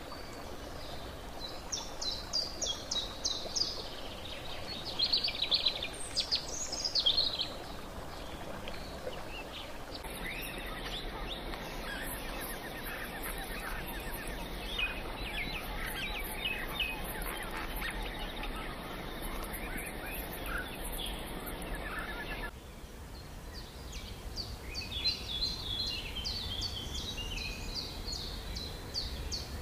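Wild birds chirping and calling in short repeated phrases over a faint outdoor ambience. The background changes abruptly about ten seconds in and again about twenty-two seconds in, and the loudest calls come in the first few seconds.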